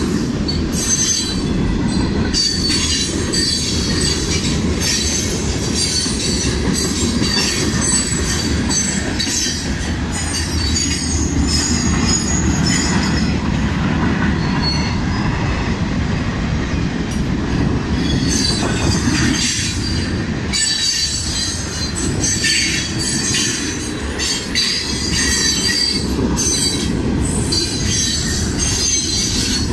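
Freight train cars rolling past, a steady heavy rumble with high-pitched wheel squeal that comes and goes, fading about halfway through and returning, along with clicking from the wheels on the rails.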